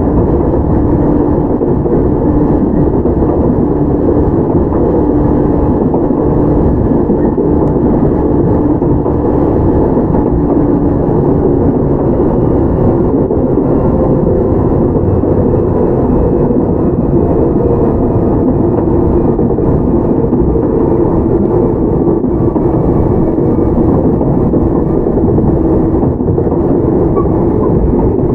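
Toyama Chiho Railway 17480-series electric train (ex-Tokyu 8090, field-chopper control) heard from inside the car while running: a steady motor and gear hum over wheel and rail noise.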